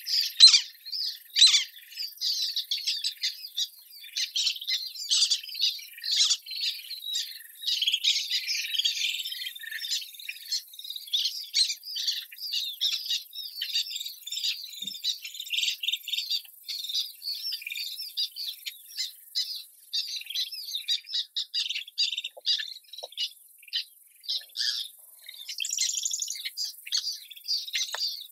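Wild birds chirping and calling almost without pause, a dense chatter of short high-pitched notes.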